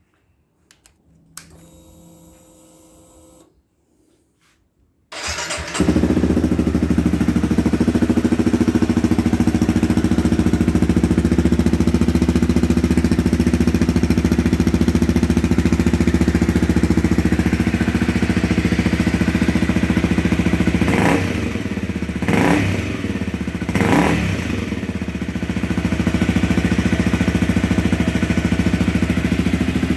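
An engine exhausting through a cheap aftermarket silencer short of packing: a short whirr, then it starts about five seconds in and idles steadily, with three quick blips of the throttle near the end.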